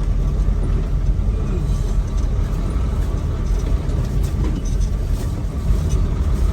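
Semi truck engine and road noise while driving: a steady low rumble.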